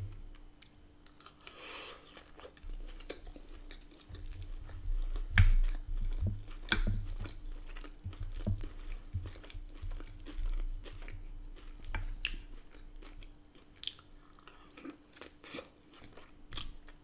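Close-up chewing and crunching of a mouthful of burrito-bowl salad: lettuce, cucumber and tortilla chips. There are scattered crisp crunches and clicks, with a faint steady hum underneath.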